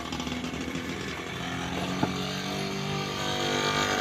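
A small engine running steadily and slowly getting louder, with a single sharp click about two seconds in.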